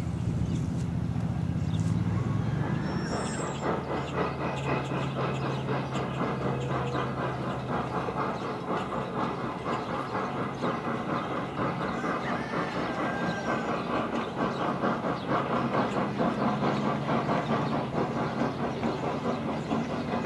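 Railroad passenger coaches rolling past, their wheels clicking rapidly and steadily over the rail joints, with a low steady rumble beneath.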